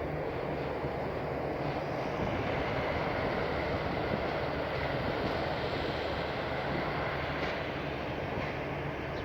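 Passenger train running by, a steady rumble of wheels and running gear with a low, even engine drone underneath.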